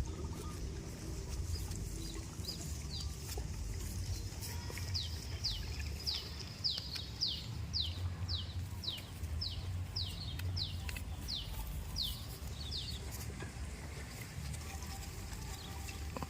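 A bird calling a series of about sixteen short, high notes, each sliding downward, about two a second for some eight seconds in the middle, over a steady low rumble.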